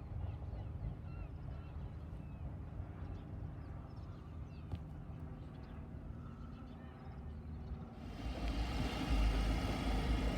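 Low steady rumble with small birds chirping over it; about eight seconds in, a much louder rumble and rushing noise of a passing vehicle begins abruptly.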